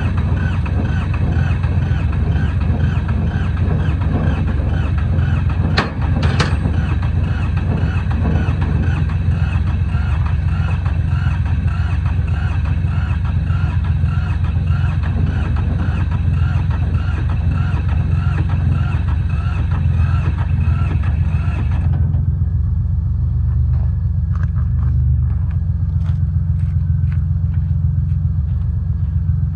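An engine running steadily with a low, even rumble, a sharp knock about six seconds in, and the upper part of the sound cutting off abruptly near the end while the low rumble carries on.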